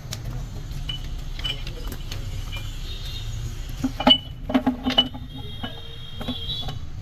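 Metal parts clinking and clanking, several sharp knocks with brief ringing about four to five seconds in, over a steady low rumble.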